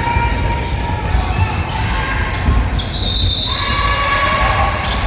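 A basketball bouncing on a hardwood gym court during a game, with players' and spectators' voices echoing in the hall.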